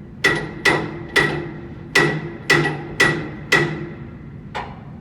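Hammer blows on metal, about eight sharp ringing strikes at an uneven pace, the last one fainter.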